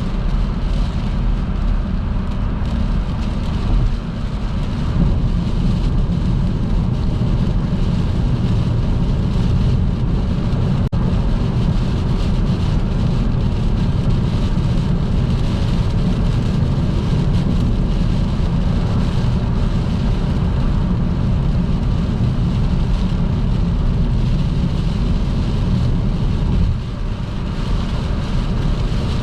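Car driving at motorway speed in heavy rain: a steady low road rumble with tyre spray and rain noise from the wet road, dipping briefly twice.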